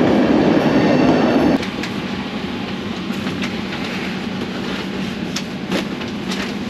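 Passenger train running on the rails. It is loud at first, then about a second and a half in it drops suddenly to a quieter steady rumble with a faint hum and a few sharp clicks.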